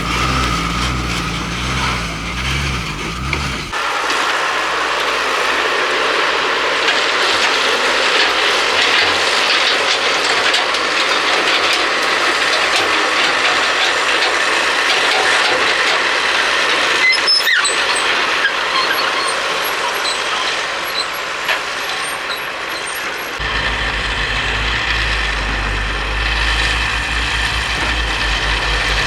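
Heavy loaded sand tipper trucks running: a deep diesel engine hum at the start, then a long stretch of hissing noise without the low hum, with one sharp knock about 17 seconds in, and the deep engine hum returning near the end.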